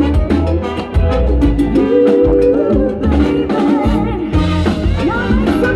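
Live Latin band playing up-tempo salsa-style music with a steady drum beat.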